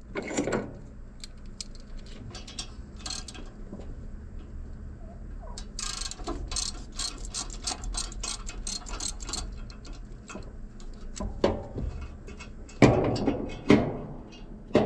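Socket ratchet clicking in quick runs as a bolt is turned out of the exhaust manifold, with a few louder metal clanks near the end.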